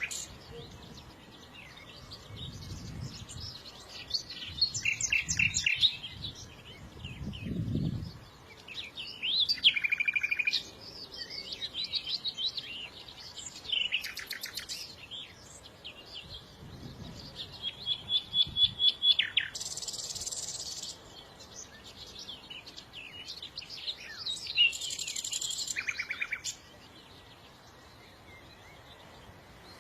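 Songbirds chirping and singing, with short calls, rapid trills and fast clicking runs from several birds overlapping.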